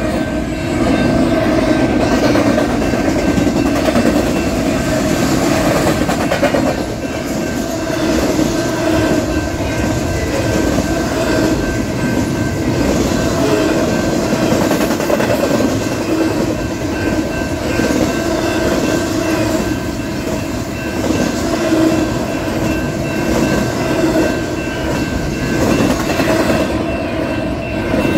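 Union Pacific double-stack intermodal train rolling steadily past, a continuous rumble with wheels clacking over the rail joints. A grade-crossing bell rings throughout.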